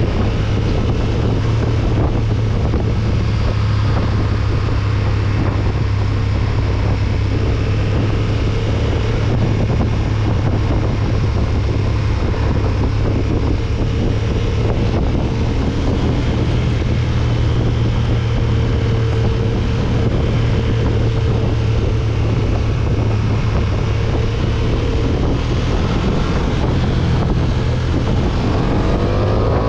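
KTM 1290 Super Duke R's V-twin engine running at a steady cruise, heavily mixed with wind buffeting the camera microphone. Near the end the engine note starts to rise as it accelerates.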